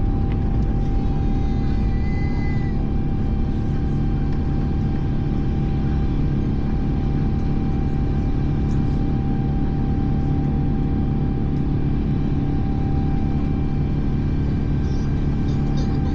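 Steady low rumble of an Airbus A350's Rolls-Royce Trent XWB engines and airflow, heard inside the cabin, with several faint steady tones above it.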